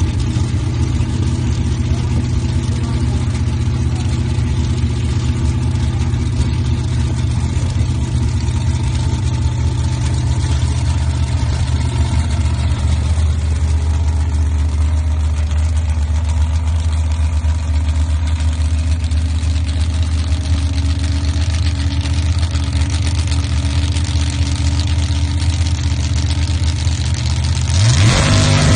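Drag-racing engine idling with a steady low note, then revving up sharply near the end, rising quickly in pitch and volume.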